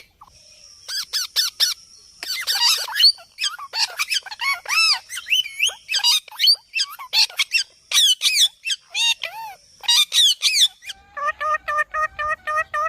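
Indian ringneck parakeet squawking and chattering: a quick series of short, sharp calls and curving whistled notes, then near the end a fast, even run of repeated notes.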